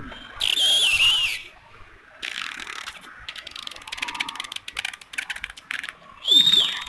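Birds screeching loudly, two high wavering calls, one about half a second in and one near the end, with a fast run of dry rattling clicks between them.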